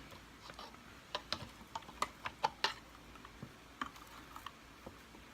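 Irregular light clicks and taps of small plastic and metal vacuum-cleaner parts being handled during disassembly, clustered in a quick run about one to three seconds in, then sparser.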